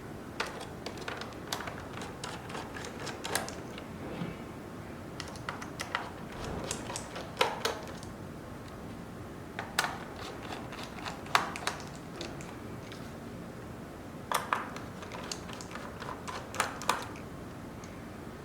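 Irregular clicks and taps of plastic parts being handled, some in quick clusters, as a Roomba robot vacuum is worked on during a battery replacement.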